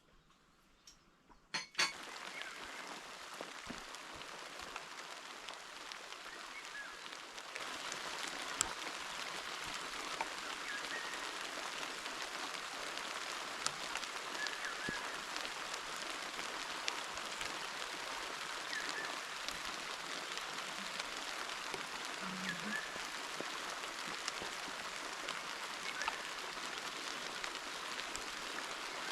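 Heavy rain falling as a steady hiss. It starts abruptly with a click about two seconds in and grows heavier about seven seconds in.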